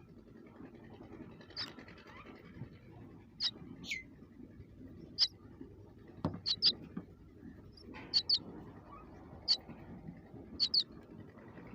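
Baby birds cheeping: short, high chirps, single or in quick pairs, about one a second, over a faint low background hum.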